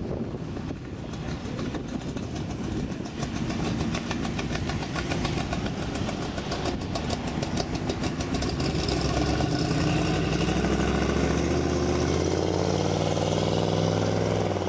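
Car engines running as cars drive slowly past one after another. A deep, steady engine note grows louder from about nine seconds in.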